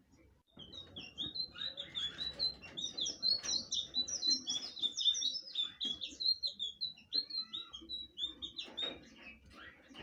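Blue flycatcher (sikatan biru) singing: a fast, continuous stream of short high notes that starts just under a second in and dies away near the end.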